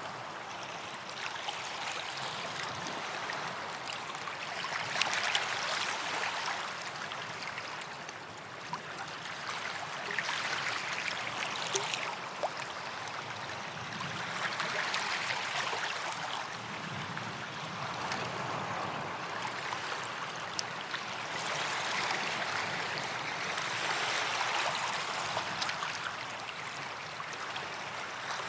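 Sea waves washing up on a sandy beach, a hiss that swells and fades every few seconds.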